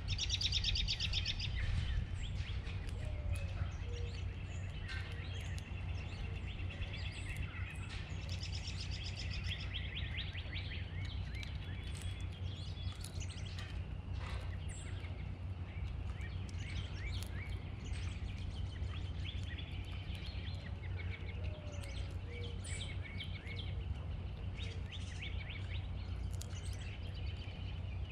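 Wild songbirds singing and chirping, with fast trills that come and go, over a steady low background rumble.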